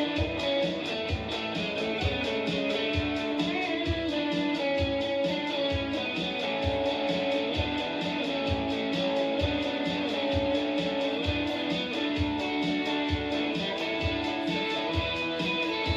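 Live indie rock with no vocals: strummed electric guitar over a steady low beat.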